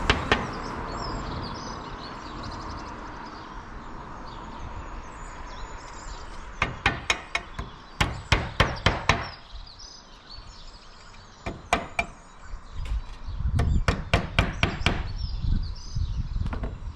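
Quick runs of sharp knocks from a hand tool striking on the roof, about four a second, in two bursts: one in the middle and another a few seconds later.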